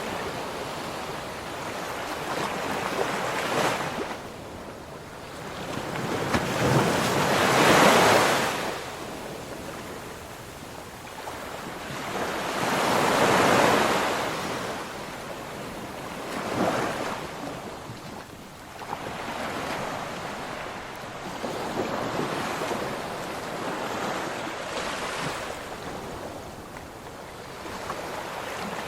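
Ocean waves breaking and washing on a shore, surging and ebbing every few seconds, with two larger breakers about a third of the way in and near the middle.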